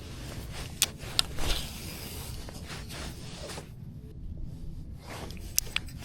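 Handling noises: soft rubbing and a few short, sharp clicks, two about a second in and two more near the end, over a low steady rumble.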